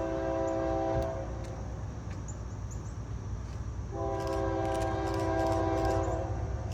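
Diesel locomotive's multi-chime air horn sounding two long blasts: one held from the start until about a second in, then another from about four seconds in to about six, over the steady low rumble of the train.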